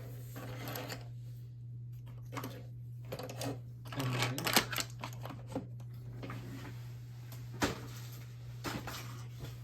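Hard plastic clicks and clatter of a LEGO pull-back race car being handled, busiest about four to five and a half seconds in, with one sharp click near the end. A low steady hum runs underneath.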